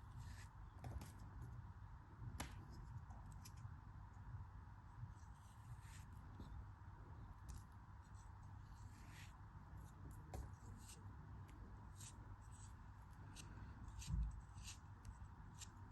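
Faint, crisp clicks and snips of a blade cutting through a soft craft material, coming irregularly and more often in the second half, over a faint steady hum, with one low thump near the end.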